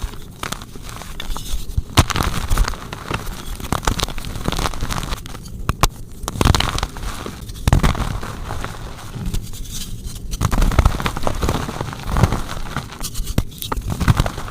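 Soft blocks of gym chalk being crushed and crumbled, giving a dense, irregular run of crunches and crackles with a few short pauses.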